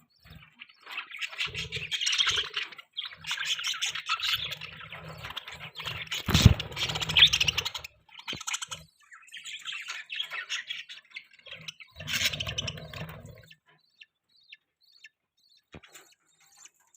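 Budgerigars chattering and chirping in quick, warbling bursts, with a single sharp knock about six seconds in. The chatter stops about two-thirds of the way through, leaving only a few faint clicks.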